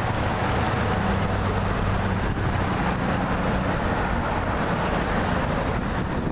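Freight train rolling past: a steady rumble of cars on the rails with a low hum underneath.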